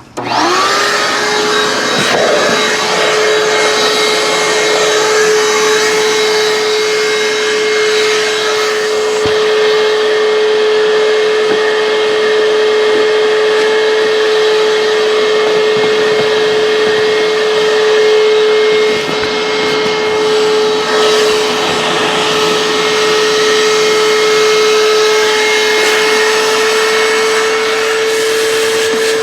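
Vacuum cleaner switched on, its motor spinning up in a quick rising whine, then running steadily with a high whine over a rush of air. The airflow note shifts briefly a little past the middle as the nozzle is worked.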